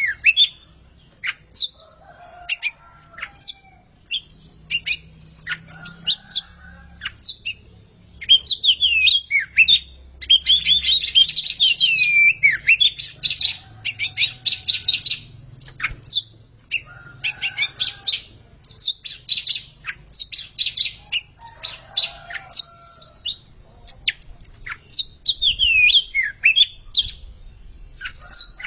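A pair of Oriental magpie-robins singing against each other: varied whistled phrases and sliding notes broken by short pauses, with long runs of quickly repeated notes about a third of the way through and again just after the middle.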